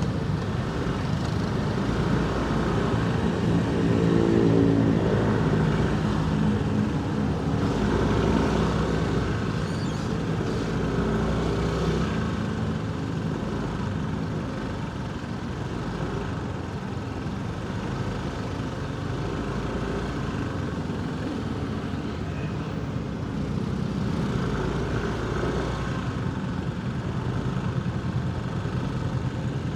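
Motorcycle engine running in slow city traffic, mixed with the engines of surrounding vehicles. The engine note rises and grows louder a few seconds in, then settles to a steadier drone.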